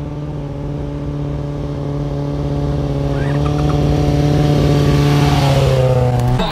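Motorcycle engine held at steady revs, growing gradually louder, with its pitch dipping slightly near the end before it cuts off.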